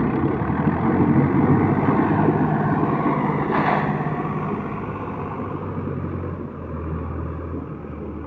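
Diesel engines of a Swaraj 744 tractor and a truck running with a steady low drone, loud at first and growing gradually fainter, with a brief hiss about three and a half seconds in.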